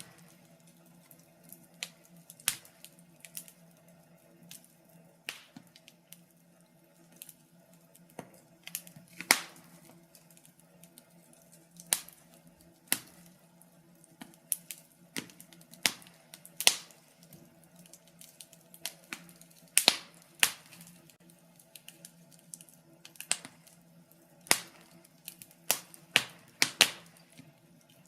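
Wood fire in a fireplace crackling: irregular sharp pops and snaps, roughly one a second, some much louder than others, over a faint steady hum.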